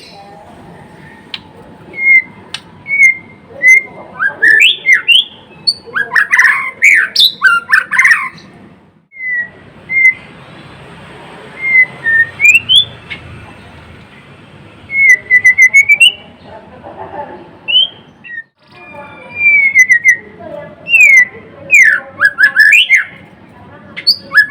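White-rumped shama singing in full voice: phrases of clear whistled notes that slide up and down, mixed with quick rapid sweeps, with short pauses between phrases.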